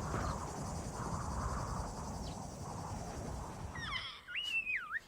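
Outdoor noise, a rumbling haze with a steady high hiss, then about four seconds in a bird gives several quick, sweeping whistled calls.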